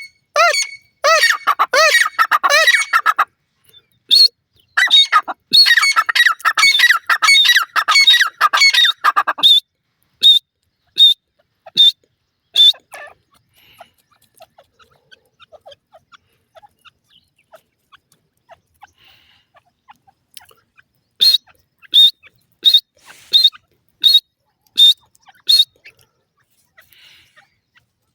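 Game birds calling: two stretches of rapid, harsh, repeated calls in the first ten seconds, then a series of short, sharp, high notes. After a quieter gap of several seconds comes another run of sharp notes near the end.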